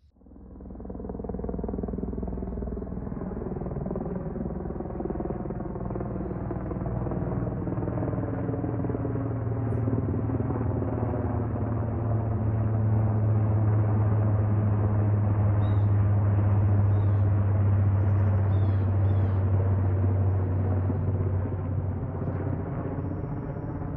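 Military helicopters flying low and close, a steady rotor and engine drone that builds to its loudest past the middle, then begins to fade.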